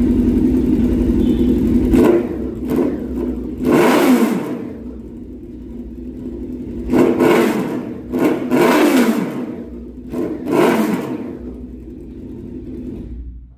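Four-cylinder engine of a Ducati-replica sport motorcycle idling, then revved in a run of quick throttle blips, each rising sharply and falling back to idle.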